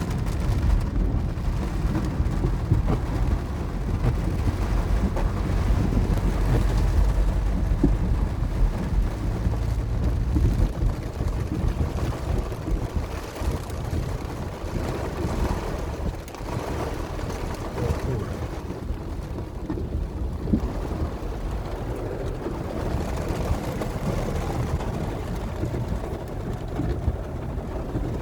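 Cloudburst on a flooded street: steady noise of heavy rain and running floodwater under a deep rumble that is heavier in the first half and eases after about twelve seconds.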